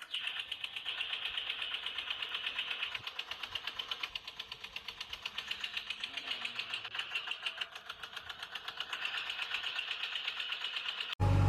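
Small electric motor and plastic gearbox of a battery-powered toy vehicle whirring, with a fast, even clicking throughout.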